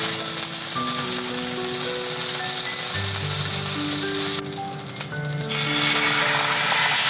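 A hamburg steak patty sizzling in hot fat in an iron skillet. The sizzle drops away briefly about four and a half seconds in, then comes back louder as the sauce is poured into the hot pan.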